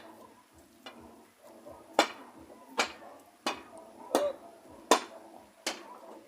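Hammer blows on wood during building work: a run of sharp, single strikes about one every three-quarters of a second, starting about two seconds in.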